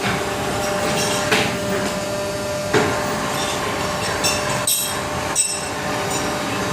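Injection molding machine for toy car tires running with a steady mechanical hum and a held tone. About five sharp knocks come at uneven intervals through it.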